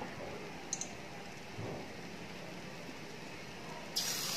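Faint background with a small click, then near the end a batter-coated prawn dropped into hot coconut oil in a kadai sets off a sudden loud sizzle of deep-frying.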